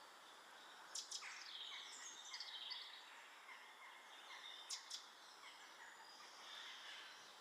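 Faint small garden birds calling: a pair of sharp chirps about a second in, a run of short falling chirp notes after it, and another sharp pair near 5 s, over a steady outdoor hiss.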